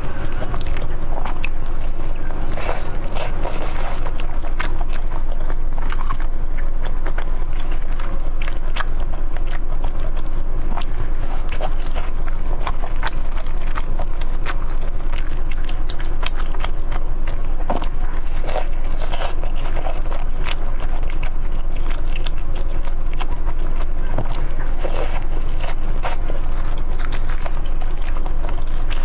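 Close-miked eating: biting and chewing food, with many short wet mouth clicks and small crunches, over a steady low hum.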